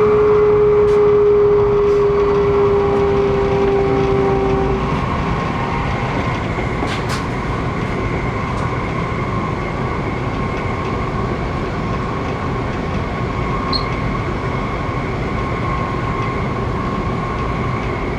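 Sanyo Shinkansen train running at speed, heard from inside the passenger car: a steady rushing of wheels and air, with a motor whine that slowly falls in pitch and stops about five seconds in.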